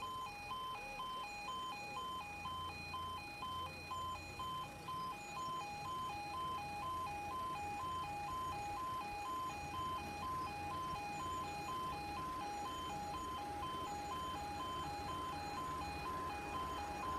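Level crossing alarm warbling steadily, switching rapidly back and forth between two pitches. Under it a low rumble comes in about a second and a half in, from an approaching Class 156 diesel multiple unit.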